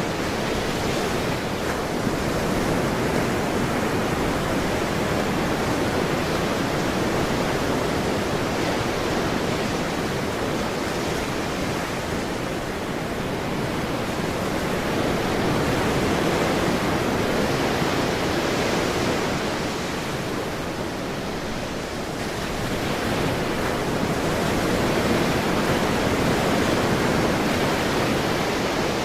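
Ocean surf: a continuous wash of breaking waves, swelling and easing slowly every several seconds.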